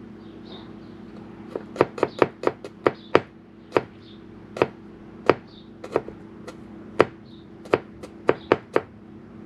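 Kitchen knife slicing garlic on a cutting board: a series of sharp, irregular taps of the blade striking the board, with a quick run of cuts early on, slower single cuts, and another quick run near the end.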